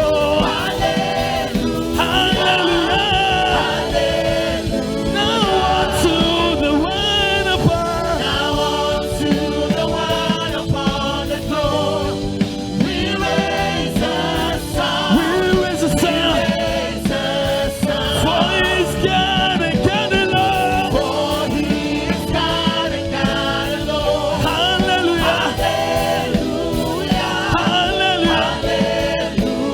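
Gospel praise music: a group of voices singing over a steady band accompaniment.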